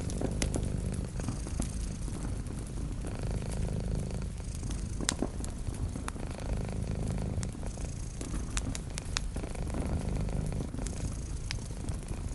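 Cat purring steadily, with a wood fire crackling: sharp pops scattered through it.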